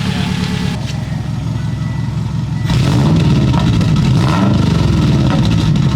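Subaru EJ25 flat-four engine running loudly through its headers, which the owner suspects has an exhaust leak. About three seconds in it gets louder as the throttle is pressed, the engine note rising and falling as it is revved.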